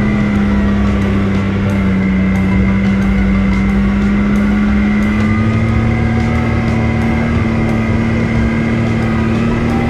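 Off-road vehicle engine running steadily under way on a trail, a constant drone whose pitch dips slightly and then creeps back up.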